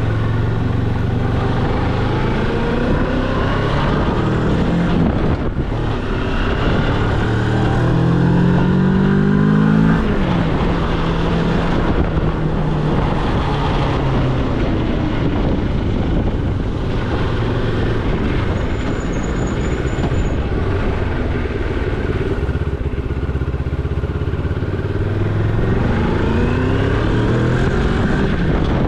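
Moto Morini X-Cape's parallel-twin engine under way, its revs climbing steadily for a few seconds, dropping abruptly about ten seconds in, then rising again near the end, as it accelerates and changes gear.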